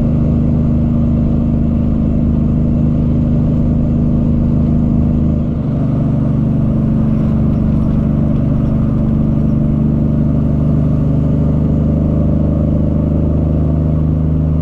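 Cummins ISX diesel engine of a Peterbilt 379 semi truck running under way, a steady low drone heard from the cab. A little under six seconds in, the pitch of the drone changes and then holds steady again.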